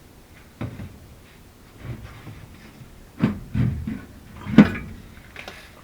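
Sheet-metal access panel of a York furnace being worked loose and taken off: a series of separate metal clunks and rattles, the loudest about three-quarters of the way through.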